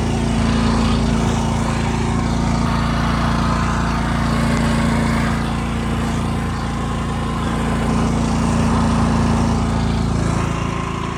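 Portable generator engine running steadily on a test run, an even motor hum.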